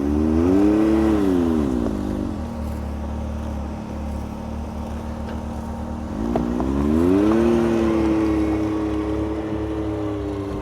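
Side-by-side on snow tracks, its engine revving up and dropping back to a low idle, then rising again about six seconds in and holding at a steady higher pitch as it pulls away.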